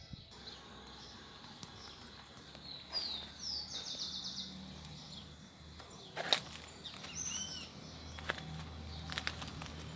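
Small birds chirping in short calls that glide down in pitch, over a low steady hum, with a few sharp clicks; the loudest click comes a little past the middle.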